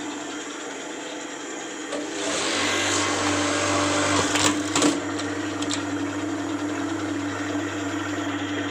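Juki industrial buttonhole machine running with a steady motor hum; about two seconds in it grows louder for a few seconds as it stitches, with two sharp clicks near the end of that stretch, then settles back to the steady hum.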